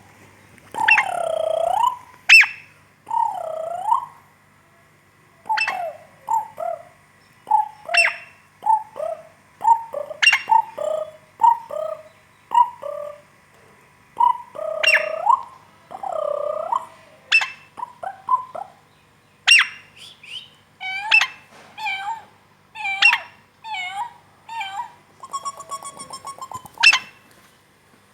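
Pet parrot whistling and chirping: a string of short chirps and swooping whistles that rise and fall, with brief pauses between them, ending in a quick rattling trill near the end.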